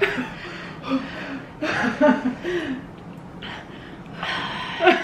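Women gasping and breathing hard through the mouth in a handful of sharp breaths, mixed with short pained laughs and whimpers, their mouths burning from very spicy instant noodles.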